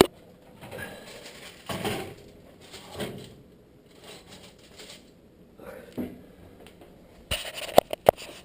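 Kitchen handling noises: a sharp click at the start, a few soft knocks and rustles, then a quick run of sharp clicks and clatter near the end.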